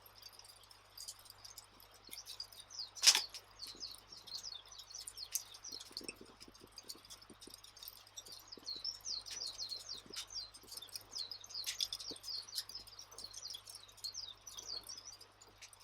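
Campfire crackling: a dense run of small quick crackles and squeaks, with scattered pops and one loud sharp pop about three seconds in.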